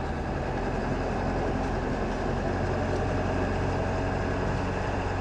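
Diesel pickup truck engine running steadily at low revs, a constant low hum with no revving.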